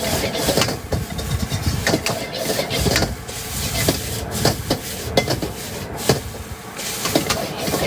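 Stir-frying in a wok: a metal spatula clanking and scraping against the wok at an irregular pace, over a steady low rushing noise.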